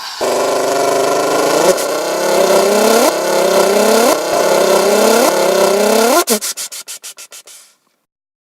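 An engine revving: its pitch climbs and drops back about once a second, six times over. Then a fast run of clicks that fades away.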